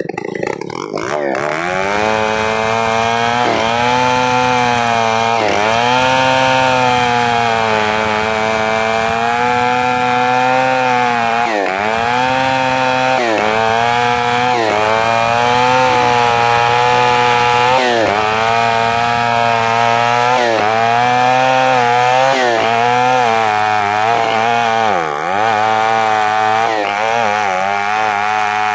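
Chainsaw revving up about a second in, then running at high speed through a long cut, its engine note dipping briefly every few seconds as the chain takes load in the wood.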